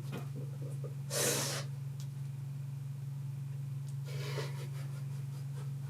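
A person drawing a short breath about a second in and a softer one about four seconds in, over a steady low electrical-sounding hum.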